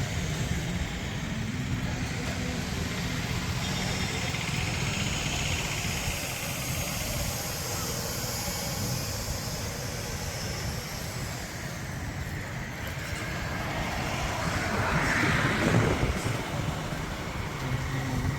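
Tractor engine running steadily, swelling louder briefly about fifteen seconds in.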